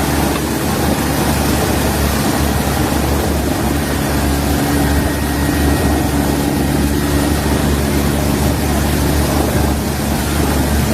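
Steady, loud engine drone with a low rumble and a rushing noise.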